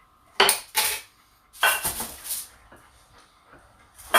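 Table noises of eating by hand from a dish: a few short scrapes and rustles, two close together about half a second in and a longer one a second later, then a sharp click near the end.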